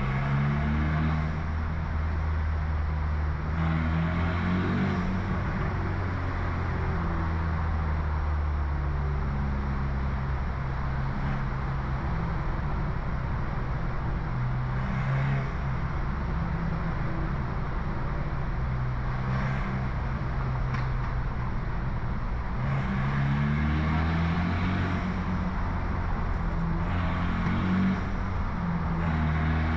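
Stage 2+ tuned BMW F30 328i's turbocharged four-cylinder with an aftermarket downpipe and loud exhaust, driving under load: the engine note climbs in pitch and drops back several times as it pulls through the gears.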